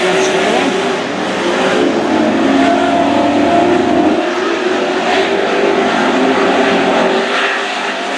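Super Truck race trucks' engines running hard around a dirt oval: several engine notes overlapping, rising and falling in pitch as the trucks accelerate and pass.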